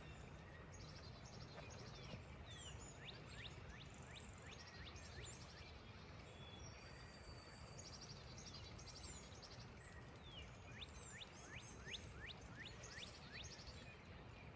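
Faint birdsong from several birds: many short falling whistles and high trills, over low, steady background noise.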